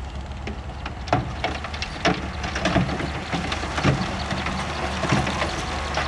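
Bulldozer's diesel engine running steadily under a clatter of sharp cracks and knocks from about a second in, as rock and gravel are pushed and spread.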